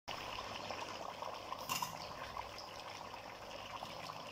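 Mutton masala and freshly added potato chunks frying in oil in a pot: a steady soft sizzle with small scattered crackles and a brief louder flare about halfway through.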